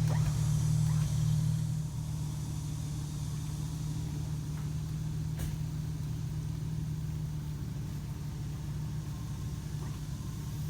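Off-road vehicle's engine idling steadily, a little louder for the first two seconds and then settling lower.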